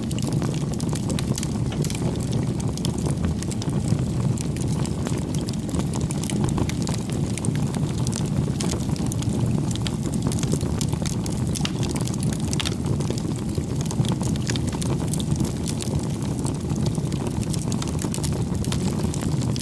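Wood fire crackling: frequent small, irregular pops and snaps over a steady low rumble of the burning fire.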